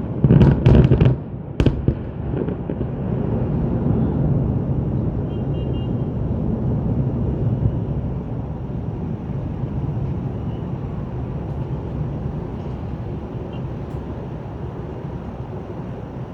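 Aerial fireworks bursting: a quick volley of loud booms in the first two seconds, then a steady low din that slowly fades.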